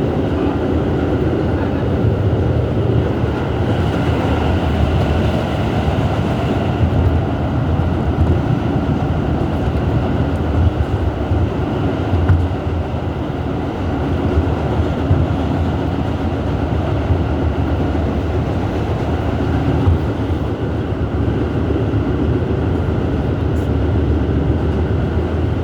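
R211S subway car running along the track, heard from inside the car: a steady rumble of wheels and traction motors that carries on without a stop.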